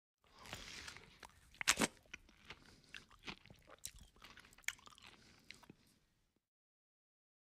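Close-miked chewing and crunching of a mouthful of duck curry and rice, a run of wet crackles and clicks with one loud crunchy bite about a second and a half in. The sound stops abruptly about six seconds in.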